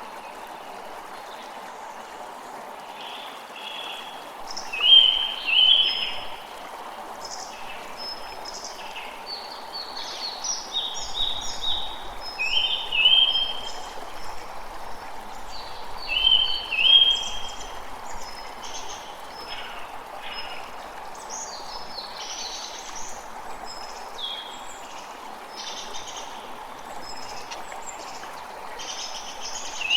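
A creek running steadily, with many small birds chirping over it in short bursts of calls, the loudest clusters coming about five, thirteen and seventeen seconds in.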